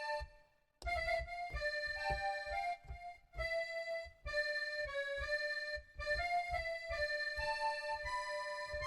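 Accordion music: a melody of held notes over a pulsing bass, played in phrases with short pauses between them.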